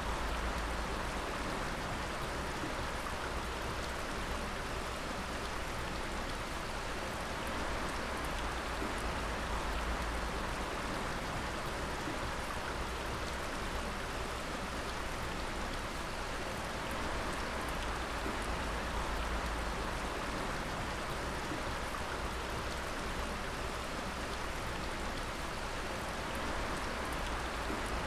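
Water dripping and splashing steadily, many drops pattering together like rain.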